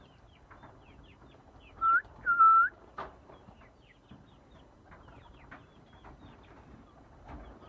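Many faint, short, high chirps from birds at a pigeon loft, with two loud short whistled notes about two seconds in.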